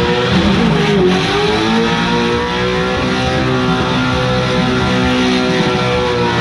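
700-horsepower Pro 2 short-course race truck engine held at steady high rpm through a burnout, with the rear tires spinning in place. The engine note stays nearly level the whole time.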